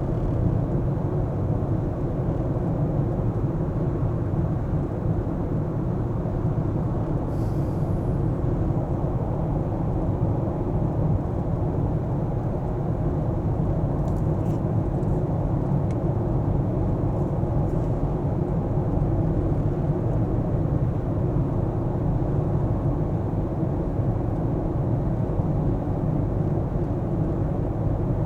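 Car being driven at a steady pace, with a steady low drone of road and engine noise.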